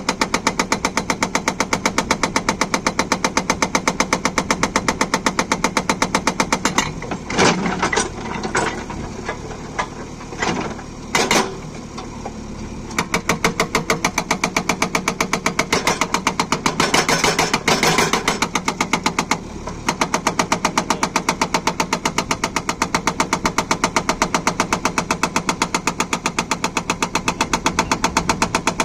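Atlas Copco hydraulic breaker on a JCB backhoe loader hammering in rapid, even blows. The hammering stops for several seconds about a quarter of the way in, where a few separate knocks are heard, then starts up again.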